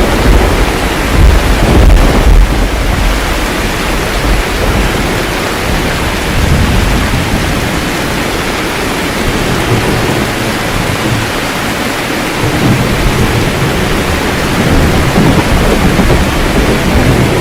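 Steady rain with rolling thunder. A heavy low rumble in the first two or three seconds dies away, and the thunder rumbles up again in the second half under the constant hiss of the rain.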